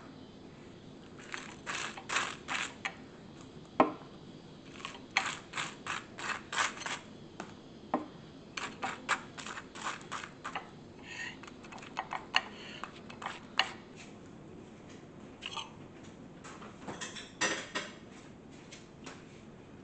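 Kitchen food-prep handling: irregular runs of light clicks and taps, with a sharper knock about four seconds in and another about eight seconds in.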